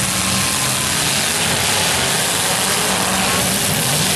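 Several demolition derby cars' engines running together in a steady, loud din.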